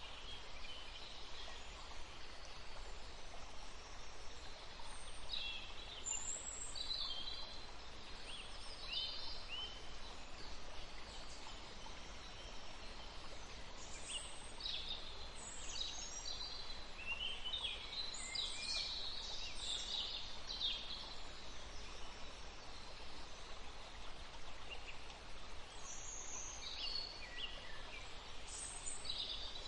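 Several songbirds chirping and singing in short trills and chirps, thickest in the middle stretch, over a steady background hiss.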